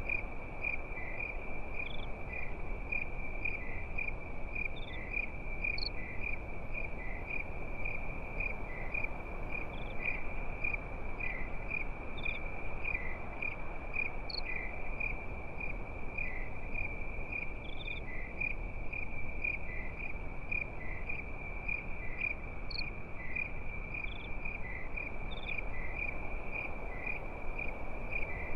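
Crickets chirping steadily at night, one in a quick, even pulse and another more slowly just below it, over a constant low hiss.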